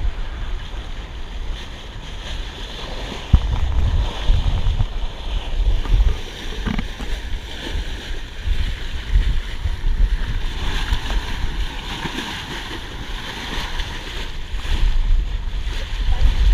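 Wind buffeting the microphone in irregular gusts over the steady rush of water past a sailboat under way.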